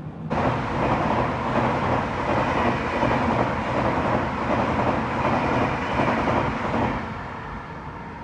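An express train running past on the adjacent track: a loud, steady rush of wheels on rail that starts suddenly and eases off after about seven seconds.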